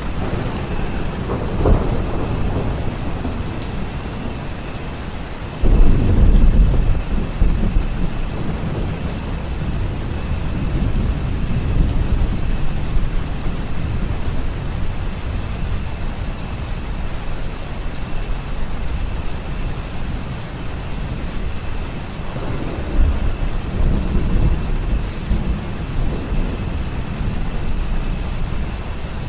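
Steady rain with rolls of thunder: a low rumble about two seconds in, a louder one breaking in suddenly around six seconds and rolling on for a few seconds, and another rumble a little past twenty seconds.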